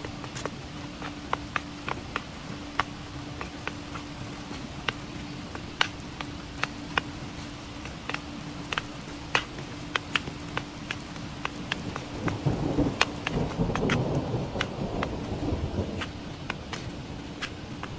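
Scattered raindrops tapping on a tent, with a rumble of thunder that swells about twelve seconds in and dies away about four seconds later. A steady low hum runs underneath.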